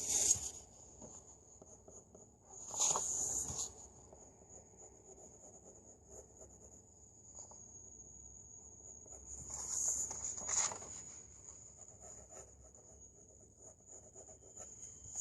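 Pencil scratching on paper in three short spells of strokes, near the start, about three seconds in and about ten seconds in, over a steady high-pitched whine.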